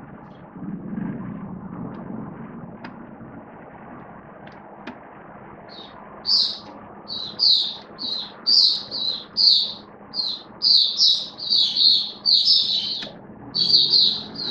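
Red-whiskered bulbul singing: a quick run of short, loud whistled phrases, one after another, starting about six seconds in. A low hum in the first couple of seconds.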